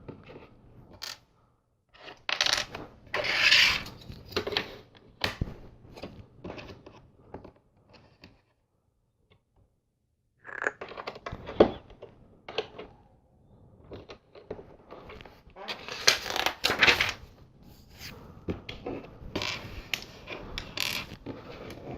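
LEGO plastic bricks and plates being handled and pressed together: irregular clicks, taps and rustling, with a pause of about two seconds near the middle.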